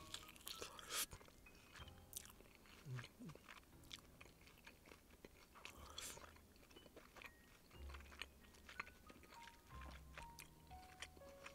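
Faint chewing and eating sounds: scattered small wet clicks and crunches of food being chewed, over quiet background music.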